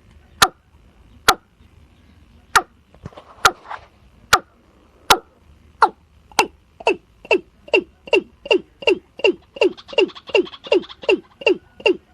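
Watercock calling: a series of short, hollow notes. They come about one a second at first, then speed up from about halfway in to two or three a second, each note dropping in pitch.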